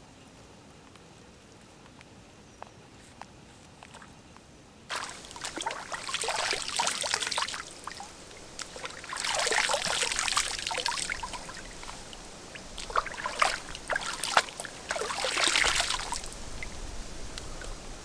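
Quiet with a few faint ticks, then water trickling and splashing in three bursts, with small clicks and knocks between them.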